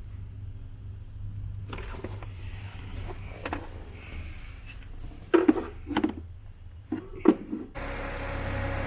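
A few sharp knocks and clinks over a low steady hum, from engine parts or tools being handled during a water pump job. Near the end the background switches abruptly to a louder steady noise.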